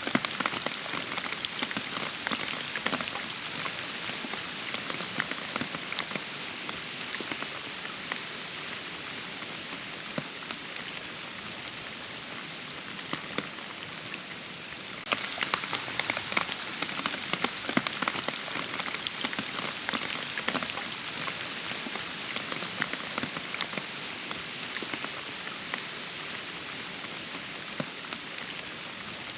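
Steady rain with many individual drops ticking close by. It eases slightly just before halfway, then turns abruptly heavier.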